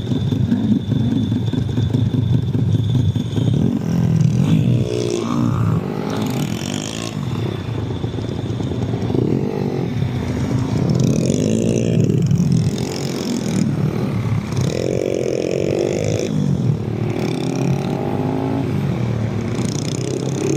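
Honda Monkey minibike's single-cylinder four-stroke engine through an aftermarket Over Racing exhaust, running steadily for the first few seconds, then revving up and dropping back again and again.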